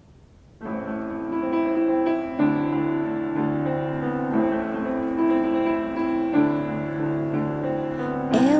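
Piano playing the song's slow intro: held chords that change about every two seconds. A singing voice comes in right at the end.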